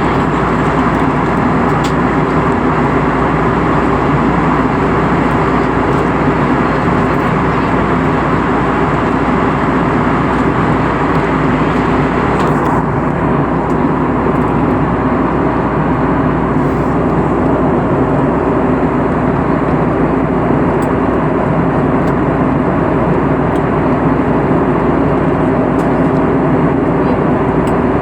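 Steady drone of an airliner cabin in flight: engine hum and rushing airflow, with low steady tones under the noise.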